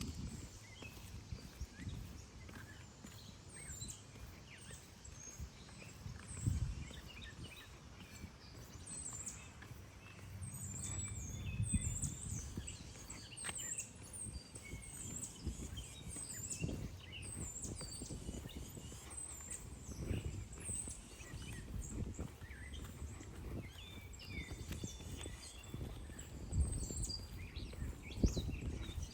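Songbirds chirping and calling, with many short, quick high chirps overlapping. Under them, irregular soft low thuds of footsteps on pavement.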